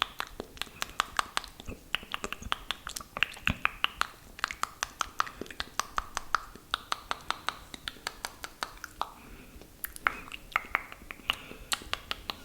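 Close-mic'd wet mouth sounds: rapid moist clicks and pops of lips and tongue, several a second without a break, with soft breathy patches between them.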